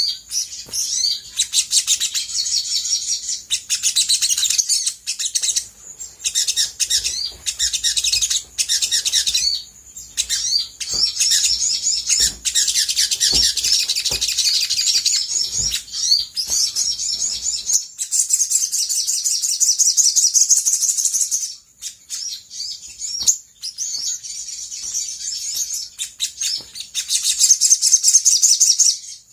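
Olive-backed sunbird singing: fast, high-pitched trills and chirps in phrases of a few seconds with short breaks between them.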